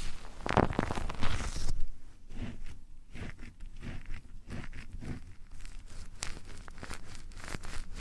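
Close-up ASMR rubbing and scratching against a microphone, in the manner of ear rubbing or ear cleaning. A loud, dense crinkly rustle for about the first second and a half gives way to softer scattered clicks and light scrapes.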